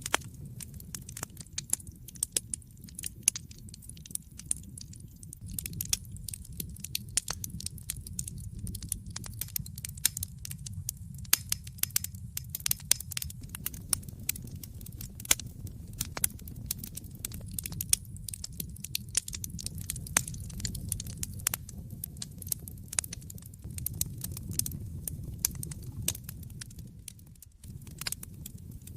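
Wood fire in a fireplace crackling: many irregular sharp pops and snaps over a low steady rumble from the flames, which dips briefly near the end.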